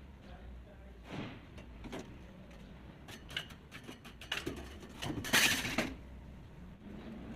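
Scattered light clicks and knocks of small parts and hand tools being handled during a car inside door handle repair, with a louder scraping noise a little past the middle.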